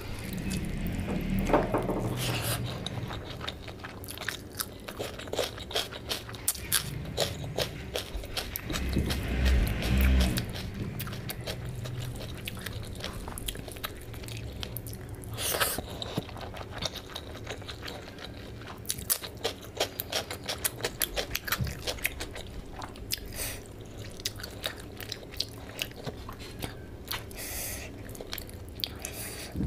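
Close-up eating sounds of a person eating rice and fish curry by hand: wet chewing and lip-smacking, with many short, sharp clicks and the squelch of fingers mixing rice in curry.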